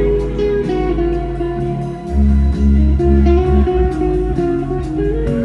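Live rock band playing: guitars over bass and drums, with the bass heavier from about two seconds in for a second and a half.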